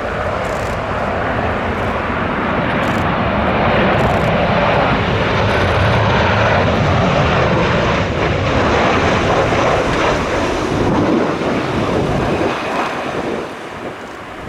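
Boeing 737 twin-jet on final approach passing close by, its engine noise swelling to a peak and then falling away sharply about thirteen seconds in.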